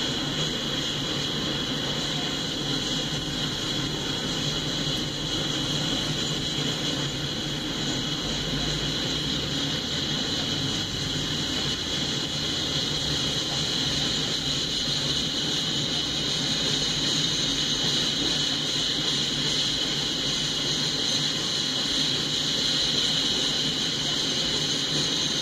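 Freight cars rolling past on the rails: a steady, unbroken noise of steel wheels running on track.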